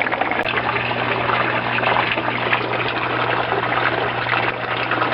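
Water from an aquaponics grow-bed drain pouring and splashing steadily into the fish tank, over a steady low hum.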